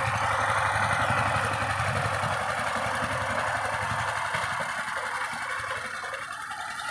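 Power tiller's single-cylinder diesel engine running steadily under ploughing load, a rapid even chugging that slowly fades as the machine moves away.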